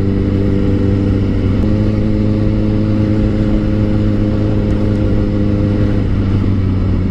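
Motorcycle engine running at a steady cruise under the rider, its note stepping up slightly about a second and a half in and easing off near the end as the throttle is rolled back.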